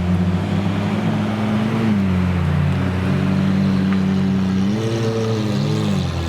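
Supercar engine running at a steady low idle, with a short light rev about five seconds in that lifts the pitch and lets it fall back.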